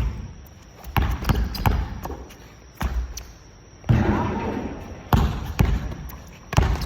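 Basketballs bouncing on a gym floor during a shooting drill: a string of separate thuds, roughly one every half second to second.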